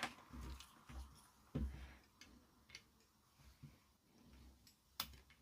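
Faint scattered clicks and light taps of small parts and test gear being handled as a transistor is set up for testing, with a few soft knocks early on and a sharper click near the end.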